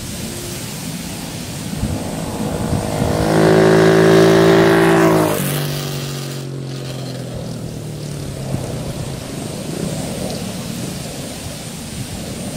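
Wind buffeting the microphone on a moving motorcycle, with an engine note that swells about three seconds in. Near five seconds in the note drops in pitch all at once, then it fades by about eight seconds in.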